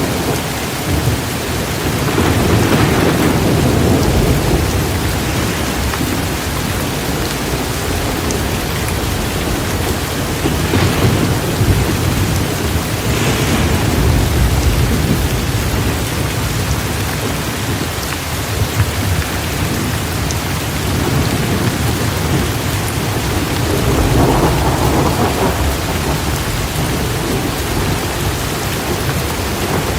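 Steady heavy rain, with low rumbles of thunder swelling about two seconds in and again near the end.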